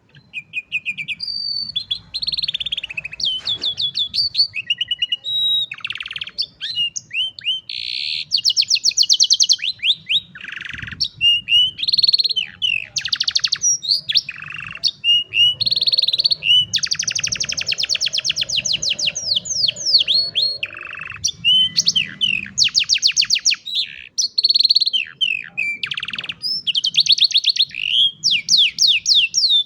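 Domestic canary singing a long, continuous song of rapid trills and whistled notes, switching to a new phrase every second or two.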